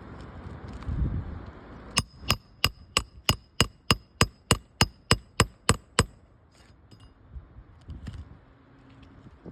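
A hammer driving a roofing nail into the shingles: about fourteen quick, even strikes, a little over three a second, each with a short metallic ring.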